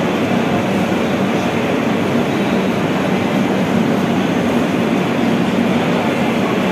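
Steady noise of trains at a railway station platform, unbroken throughout, with a low hum under a wide hiss.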